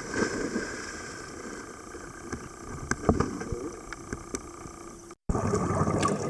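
Dive boat ambience: a steady engine-and-wind noise with a few knocks and brief voices, cut off abruptly about five seconds in.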